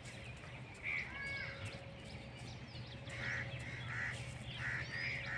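Birds calling: one short call about a second in, then a run of about five short calls in the second half, with faint small-bird chirps.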